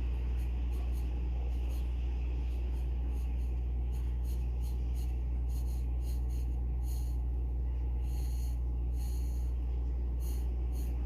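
Graphite pencil scratching on paper in short, irregular strokes, with a couple of longer strokes near the end, over a steady low hum.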